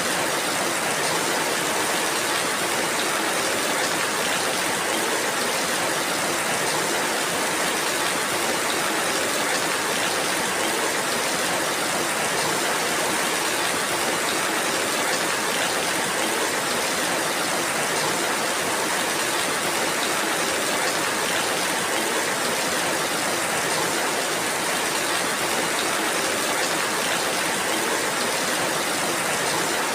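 Steady rainfall, an even hiss that holds at the same level throughout with no single sound standing out.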